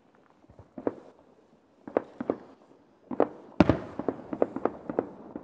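Aerial fireworks shells bursting: scattered bangs, then the loudest boom about three and a half seconds in, followed by a quick run of bangs.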